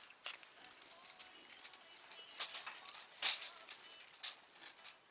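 Knife slicing smoked pork belly to check doneness: a run of short scraping, crackly strokes, the loudest two about two and a half and three and a quarter seconds in.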